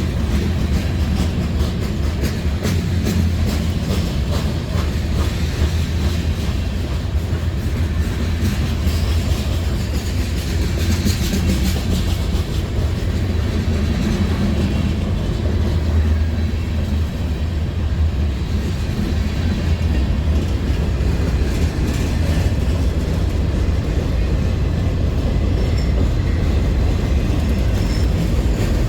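Train rolling past with a steady low rumble of its cars, wheels clicking over the rail joints, the clicks thicker in the first half.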